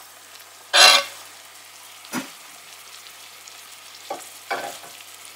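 Diced raw chicken breast scraped off a glass cutting board with a metal spoon into a pot of hot oil and onions, with a steady quiet sizzle. A short, loud scrape and sizzle about a second in as the pieces go into the pot, then smaller scrapes at about two seconds and twice after four seconds.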